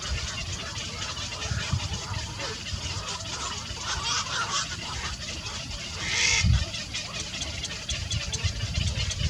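Birds calling over a steady hiss, with a brighter, louder burst of calls about six seconds in.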